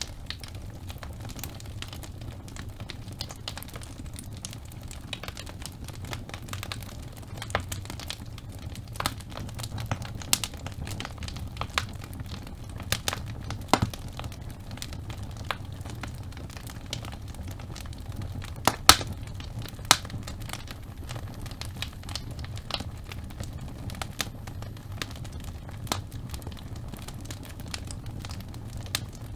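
Wood fire of burning logs in a fireplace, crackling with irregular snaps and pops over a low steady rumble; two louder pops come close together about two-thirds of the way through.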